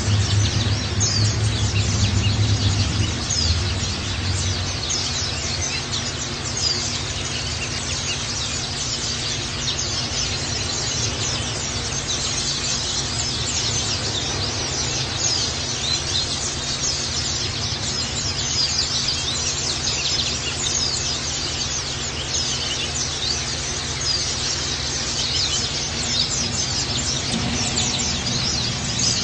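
Many white-eyes (pleci) chirping rapidly and continuously in high, thin notes over a steady rush of running water.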